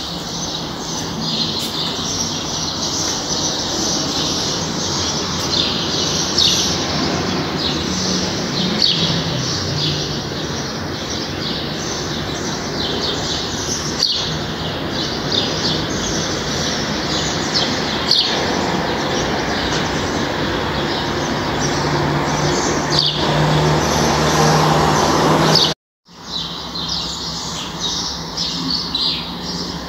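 Birds chirping, many short rapid calls over a steady background hiss; the sound cuts out completely for a moment about four seconds before the end.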